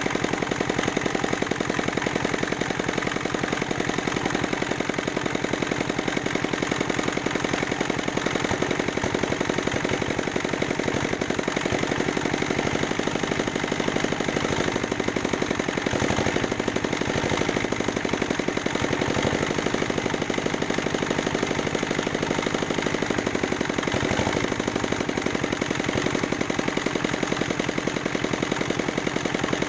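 Single-cylinder dompeng diesel engine, once submerged in a flood, running steadily with a rapid, even chatter of firing pulses.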